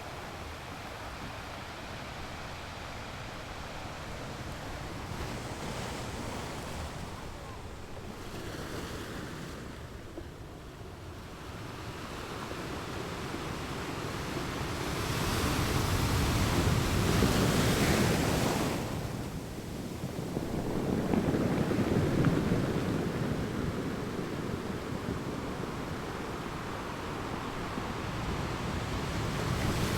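Ocean waves washing onto a sand beach, rising and falling in surges: a quieter wash at first, then a wave breaks loudest about halfway through, another follows a few seconds later, and a third builds near the end.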